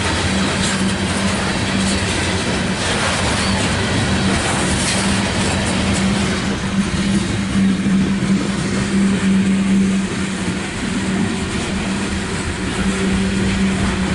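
Loaded coal hopper cars of a freight train rolling past on steel rails: a steady rumble of wheels on track with a low hum and occasional clacks at rail joints.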